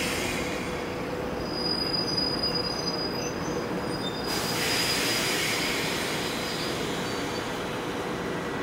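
Korail commuter electric train at a platform: a thin, high-pitched squeal over steady rail noise, then a loud hiss of air sets in about four seconds in and slowly fades.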